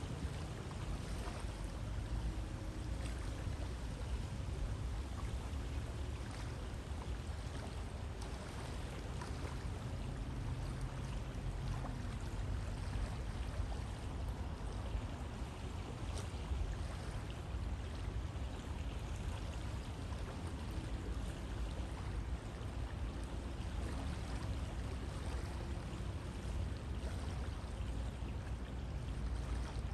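River water flowing steadily, a continuous rush with a deep low rumble and small splashes and gurgles scattered through it.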